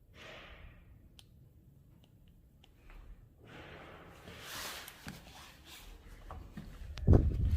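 Wind in a snowstorm, a hiss that builds after a few seconds, ending in a loud gust buffeting the microphone.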